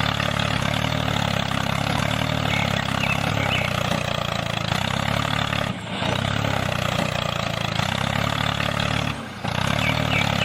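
An engine running steadily at an idle-like speed, with two brief drop-outs, one about six seconds in and one about nine seconds in.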